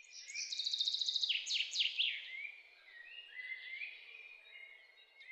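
Several birds singing: fast high trills and chirps, with a few quick downward-sweeping calls, over a faint steady background hiss. The song is loudest in the first couple of seconds and then thins to scattered chirps.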